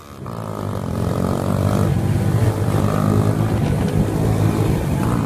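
Benelli motorcycle engine running steadily, rising in level over the first second.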